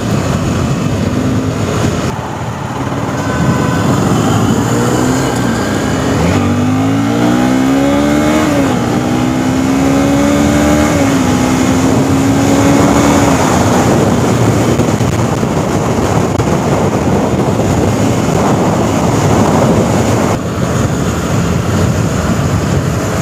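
Honda CBR250R's single-cylinder engine accelerating hard on the move: from about six seconds in its pitch climbs, drops back at each of two upshifts and then holds before fading. Heavy wind rush on the microphone runs under it and fills the rest.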